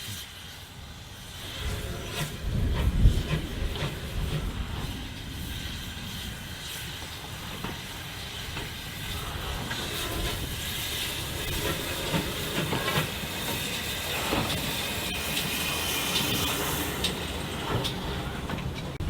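Steam locomotive hissing steam over a train's low rumble, which is loudest about three seconds in.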